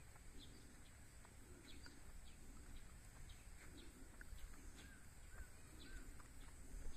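Quiet outdoor ambience of faint bird chirps: scattered short calls, with three small arching chirps a little after the middle. Under them runs a steady high-pitched drone and a low rumble.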